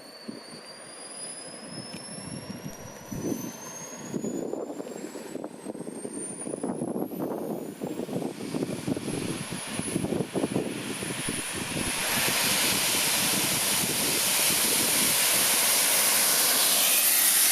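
A small 50 lb-thrust turbojet spools up: its whine rises steadily in pitch for about nine seconds over an uneven rumble. About twelve seconds in it jumps to a higher, louder steady roar and holds there.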